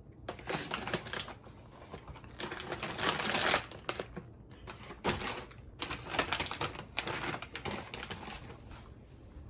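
Irregular rapid clicking and rustling from things being handled, with louder rustling stretches about three and five seconds in.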